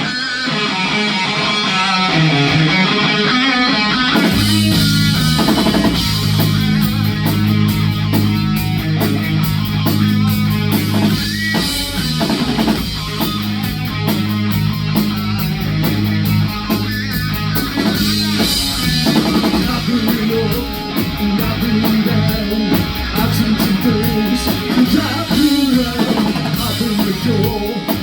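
Live rock band playing a song: electric guitar alone at first, then drums and bass come in about four seconds in and the full band plays on.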